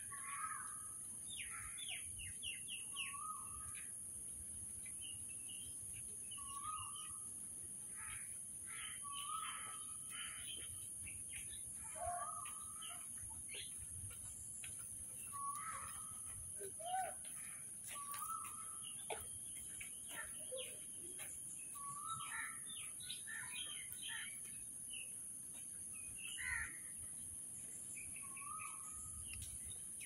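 Several birds chirping and calling in the trees: a mix of short chirps, and one short call that repeats every two or three seconds. A steady high-pitched hiss runs under them.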